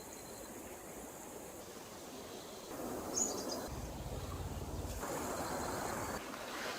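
Forest stream flowing steadily, with a brief high chirp about three seconds in and a short low rumble just after it.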